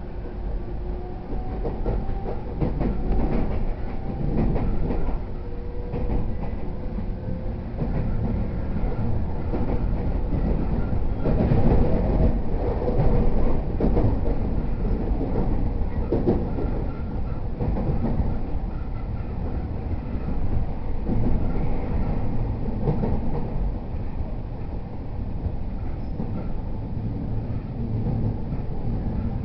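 Interior running sound of a JR East E231 series 0 electric commuter train: a steady rumble of wheels on rail with repeated clicks over rail joints and a faint steady motor whine.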